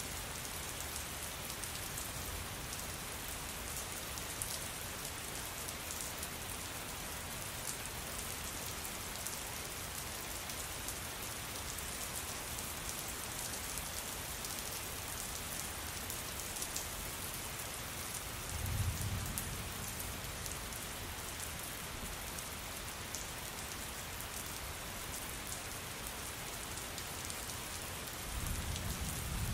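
Steady rain falling on a surface, a dense hiss with fine drop patter throughout. Two brief low rumbles rise out of it, one about two-thirds of the way through and one at the very end.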